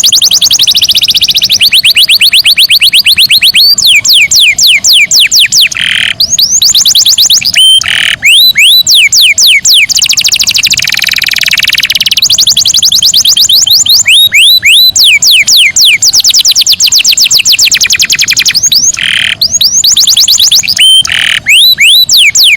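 Domestic canary singing: long rapid trills of repeated falling notes that shift in speed and pitch from one roll to the next, with a few short steady notes between them.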